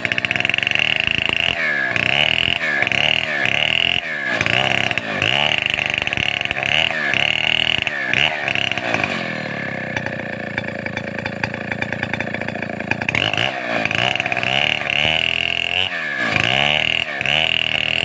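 Stihl 070 two-stroke chainsaw running hard, its engine speed dipping and recovering again and again, about once or twice a second, with a steadier stretch in the middle.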